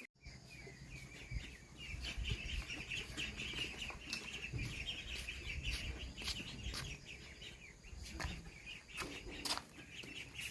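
A crowd of ducklings peeping continuously, many high chirps overlapping, with a few scattered knocks and rustles.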